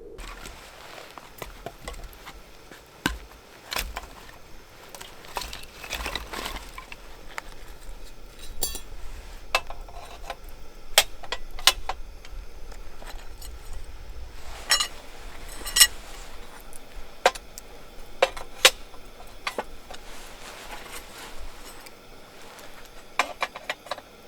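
Camp cookware and utensils being handled: irregular metallic and glassy clinks and knocks, a few sharper ones standing out.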